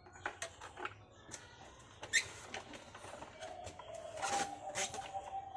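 Scattered clicks and knocks of hands handling the parts of an RC model plane while its battery is fitted, with a faint steady tone starting a little past halfway.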